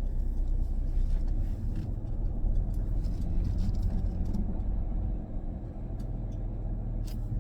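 Van engine running with a steady low rumble, heard from inside the cab as the van backs out and turns around.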